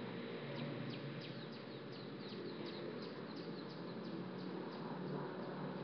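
A small bird chirping: a quick run of short high chirps, each sliding down in pitch, about three a second, over a steady faint background hiss.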